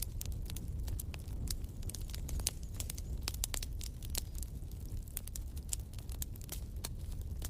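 Fire in a fireplace crackling: frequent irregular sharp pops and snaps over a low steady rumble.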